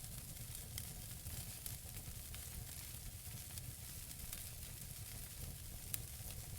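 Wood fire burning in a fireplace: frequent small crackles and pops from the burning logs over a low steady rumble, with one sharper pop about six seconds in.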